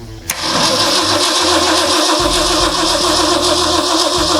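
Truck's starter motor cranking the engine after a click about a third of a second in, then a steady cranking whine as the engine, freshly primed with fuel after running dry, is turned over for its first start.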